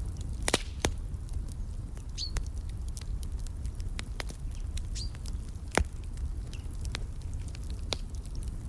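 Wood fire crackling in a fireplace: irregular sharp pops and snaps, several loud ones, over a low steady rumble. A bird gives two short high chirps, about two and five seconds in.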